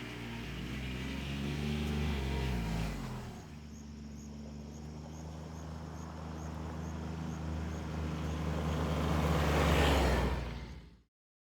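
A motor vehicle's engine running, its pitch wavering for the first few seconds, then steadier and gradually louder until the sound cuts off abruptly near the end.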